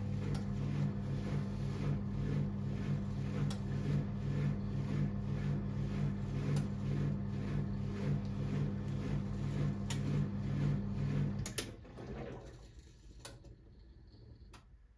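1978 Siemens WA4600 washing machine running with a steady motor hum and an even pulsing from the turning drum. About three quarters of the way through, the motor cuts off and the drum coasts down. A couple of sharp clicks follow.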